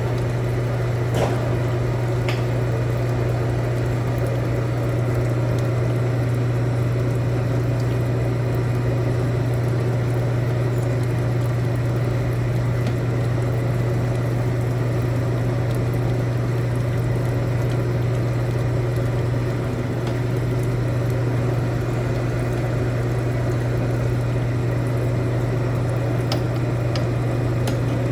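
A machine running steadily with a constant low hum and a wet, hissing wash over it, with a few light clicks near the start and near the end.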